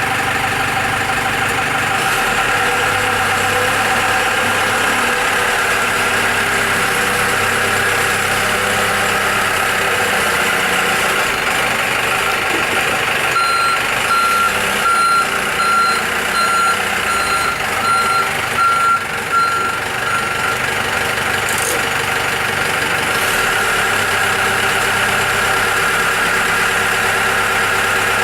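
Hyster 5.5-tonne diesel forklift's engine running steadily. About halfway through, its reversing alarm beeps about eight times, a little over one beep a second, as the truck backs up.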